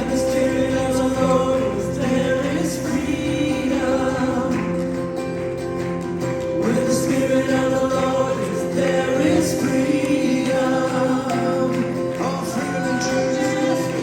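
Gospel worship song: a group of voices singing together over sustained instrumental accompaniment.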